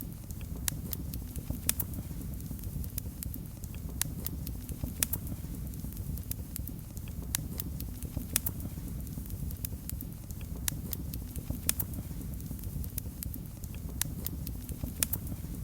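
Wood fire in a fireplace crackling: sharp pops and snaps at irregular intervals over a steady low rumble of the flames.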